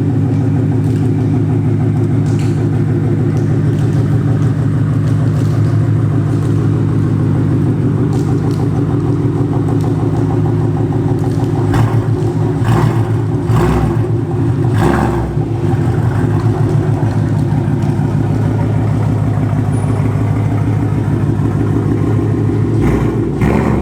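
2019 Mustang GT's 5.0-litre V8 running through an H-pipe and Flowmaster Outlaw mufflers, with a steady loud idle. A cluster of short, sharper bursts comes about twelve to fifteen seconds in, and another near the end.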